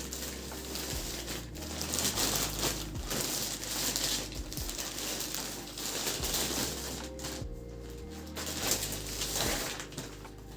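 Crinkling and rustling, heaviest in the first seven seconds, over soft background music with sustained low notes.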